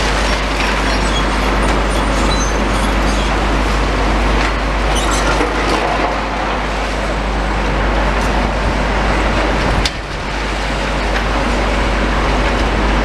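Heavy demolition machinery running steadily with a deep rumble, with short high metallic squeaks in the first few seconds and one sharp knock about ten seconds in.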